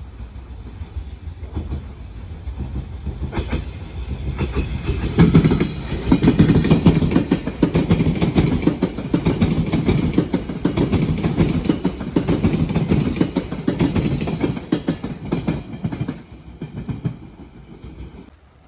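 A Chikuhi Line train passing, its wheels clattering rapidly over the rail joints above a heavy rumble. The sound swells over the first few seconds, stays loud through the middle and fades away near the end.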